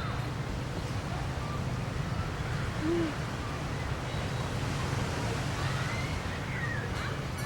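Steady low rush of beach ambience, sea surf and wind. A short low hoot sounds once about three seconds in.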